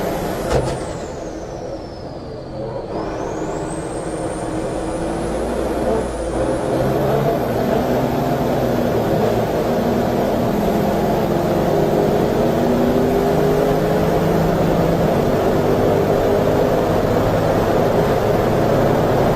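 Racing engine running hard under load. A sharp click comes about half a second in, then the engine eases off for a couple of seconds while a high whine falls, and after that it builds back up and holds loud, its pitch slowly rising.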